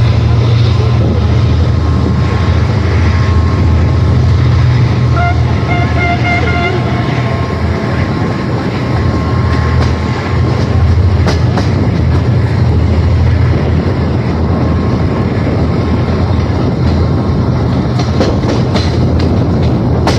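Diesel passenger train running on the track, heard from aboard: a steady low rumble of engine and wheels. A brief horn tone sounds about five seconds in, and sharp wheel clicks over rail joints come near the end.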